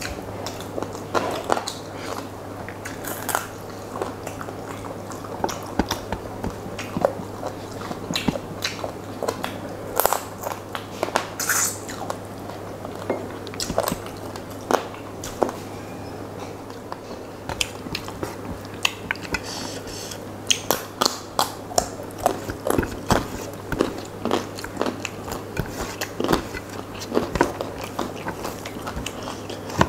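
Close-miked chewing of rice and curry eaten by hand, with many irregular sharp wet clicks and smacks. Fingers squish and mix rice on a steel plate.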